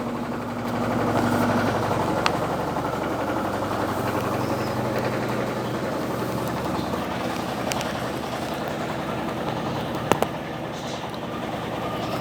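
Electrolux LTE12 top-loading washing machine running, a steady motor hum with a few sharp clicks.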